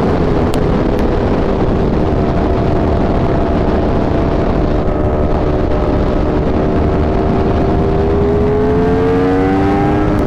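Superbike engines at a steady cruise under heavy wind rush on the helmet mic. The engine notes climb over the last couple of seconds as the bikes speed up.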